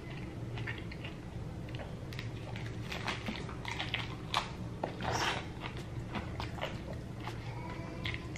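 A person chewing and biting into crunchy tacos, with irregular crunches and mouth sounds.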